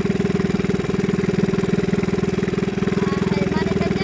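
Small fishing boat's engine running steadily with a fast, even pulse.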